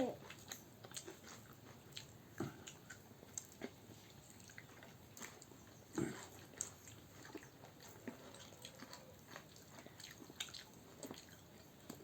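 Quiet chewing and biting while eating chicken biryani and kebab: scattered small mouth clicks and smacks, with a slightly louder bite about six seconds in.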